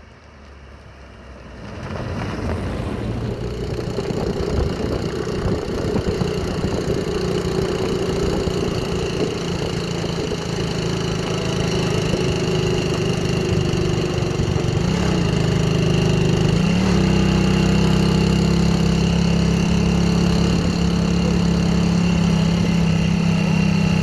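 An engine running steadily, its speed rising around fifteen to seventeen seconds in and then holding at a higher, louder pitch.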